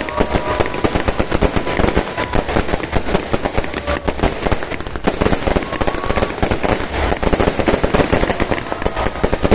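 Fireworks and firecrackers going off in a rapid, continuous crackle of overlapping bangs, like machine-gun fire, with a few brief whistling tones mixed in.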